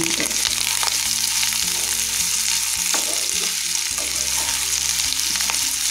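Boiled elephant foot yam pieces sizzling in oil in a nonstick kadai. A spatula scrapes and knocks against the pan a few times as they are stirred.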